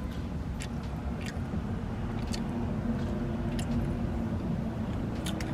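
A person chewing a slice of pepperoni, with scattered small wet mouth clicks, over a steady low hum.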